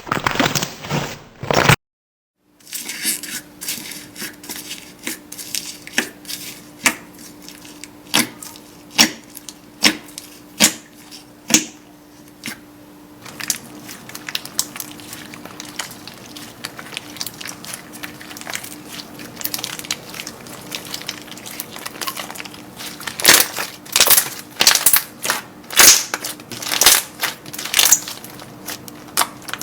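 Slime being squeezed and pressed by hand, giving irregular crackling pops and clicks. The sound drops out briefly about two seconds in, and the pops come thicker and louder in the last third.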